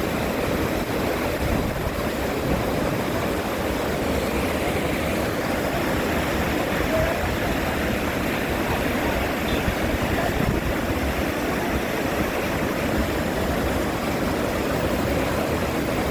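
Steady rushing of a mountain waterfall, an even, unbroken roar of falling water.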